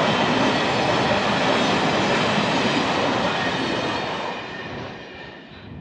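Freight train of high-sided open wagons rolling past on the rails: a loud, steady rumble and clatter of wheels that fades away from about four seconds in as the last wagon goes by.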